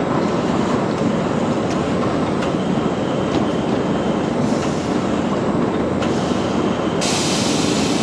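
Loud, steady rumbling machinery noise with faint scattered ticks, and a high hiss that joins about seven seconds in.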